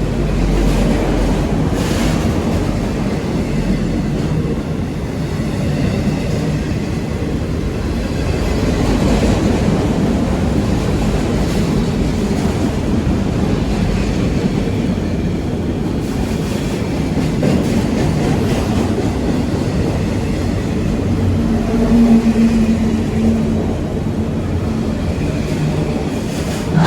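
Freight train cars rolling past at close range: a steady rumble with wheel clatter over the rail joints. A short louder low tone comes in about 22 seconds in.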